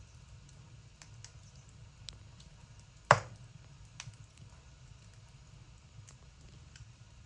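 Firewood burning in a wood stove, crackling with scattered small ticks and one sharp loud pop about three seconds in, followed by a smaller pop a second later, over a low steady hum.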